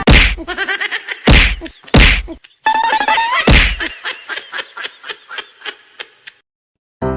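Four loud whacks, one near the start and three more over the next three and a half seconds, mixed with ringing musical tones and a rising glide. After them comes a fast run of short notes that fades and stops about six seconds in.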